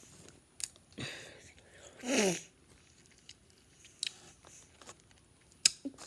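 Scattered small clicks and rustling as crackers and chocolate are handled, with one short wavering vocal sound from the child a little after two seconds in.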